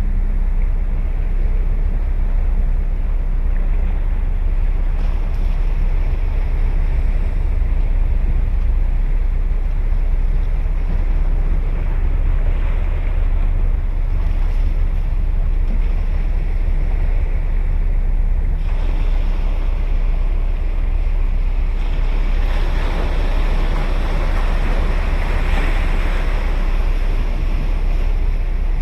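Ocean surf breaking and washing up a beach, a continuous rush under a strong, steady low rumble of wind on the microphone; one wave's wash swells louder in the last few seconds.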